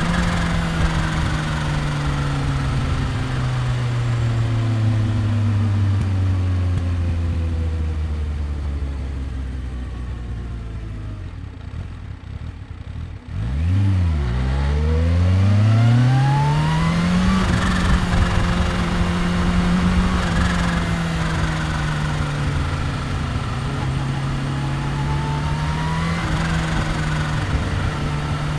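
Kawasaki Ninja H2's supercharged inline-four engine. The engine note falls steadily as the bike slows into a low lull. About halfway through, the revs climb sharply as it accelerates, then it settles into a steady cruising note.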